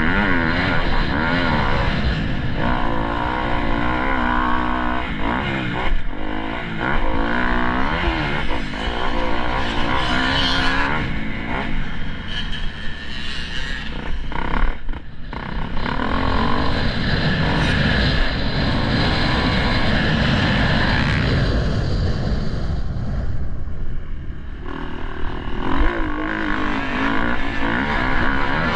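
Dirt bike engine revving up and down as it is ridden, its pitch rising and falling again and again, with wind noise over it.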